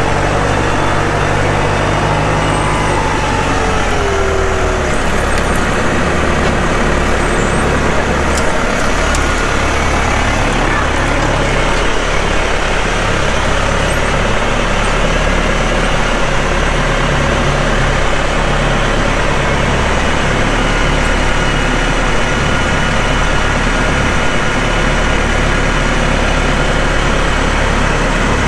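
Tractor engine running steadily, with a falling whine in the first few seconds.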